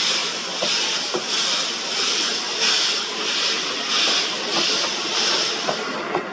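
C57 steam locomotive working slowly, its exhaust giving a steady run of hissing chuffs, about one and a half to two a second.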